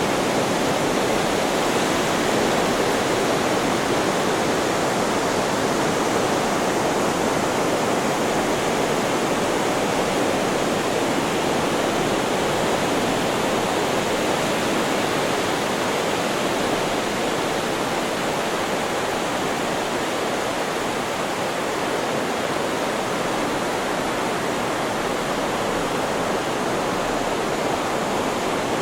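Steady, even rushing hiss of added white noise, constant in loudness with no swell or break of individual waves.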